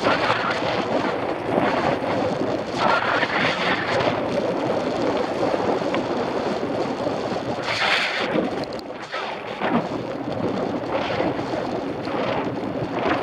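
Wind buffeting the microphone of an action camera on a moving mountain bike: a steady rushing noise that swells and eases, dipping briefly about eight seconds in.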